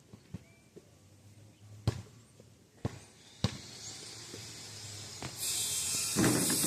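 A basketball bouncing on street pavement, a few sharp bounces with quieter knocks between them. In the second half a rising hiss builds and jumps much louder about five seconds in, like something passing on the road.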